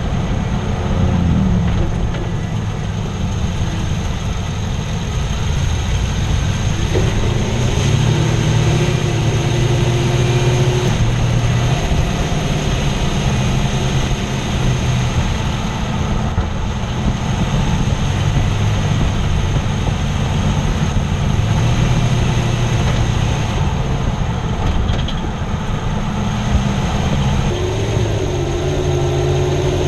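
2006 Toyota Tundra engine running, heard from under the hood, its speed stepping up and down a few times. The owner suspects a worn motor mount.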